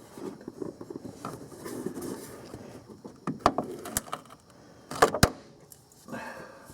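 Hand tools working a lower radiator hose clamp: faint handling and rubbing noise with a few sharp metallic clicks, one about three and a half seconds in, another at four seconds, and a quick pair around five seconds.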